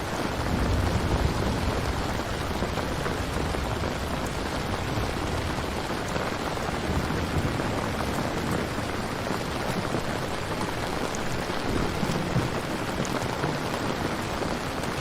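Steady rain ambience with a low rumble underneath and no speech.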